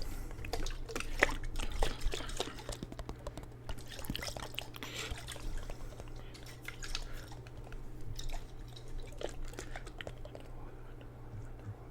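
Water sloshing and dripping in a jar, close to the microphone: many small irregular splashes and clicks, busier in the first few seconds, over a steady low hum.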